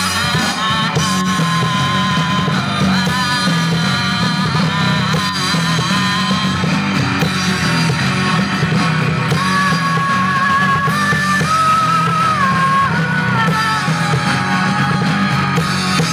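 Live rock band playing a song with electric guitar and a dense, steady backing, while a melodic lead line of long held notes steps up and down in pitch.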